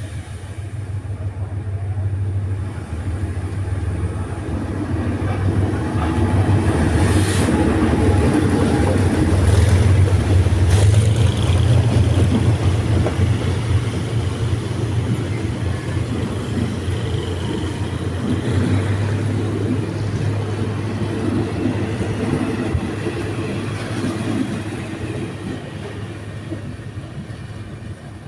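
Diesel train passing on the line: a steady low engine hum and rumble of wheels that grows louder to a peak about ten seconds in, then fades away, with a few sharp clicks near the loudest part.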